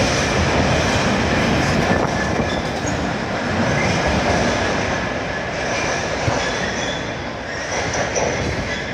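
Wagons of a ballast train rolling past on the rails, a steady rumble of wheels with faint high wheel squeals. It eases off slightly near the end.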